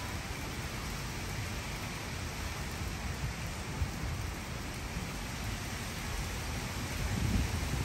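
Steady hurricane rain hissing down, with a low, uneven rumble underneath that swells near the end.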